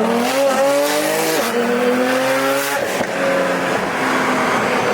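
Car engine revving hard under acceleration. Its pitch climbs and drops sharply twice, about one and a half and three seconds in, as if shifting up through the gears, with exhaust pops and cracks.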